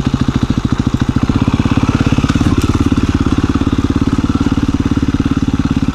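KTM 350 EXC-F single-cylinder four-stroke dirt bike engine running at low revs while riding a trail, with an even pulsing note that firms up slightly about a second and a half in.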